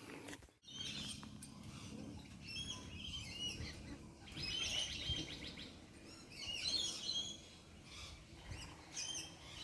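Wild birds chirping and twittering in many short calls, with a fast rapid trill about five seconds in.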